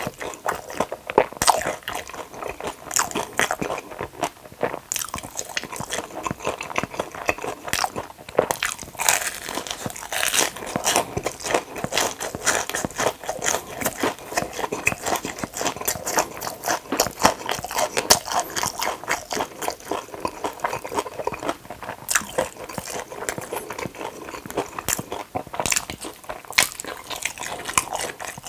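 Close-miked crunching and chewing of a fried Korean corn dog's crisp batter crust. The crunches are many, irregular and sharp.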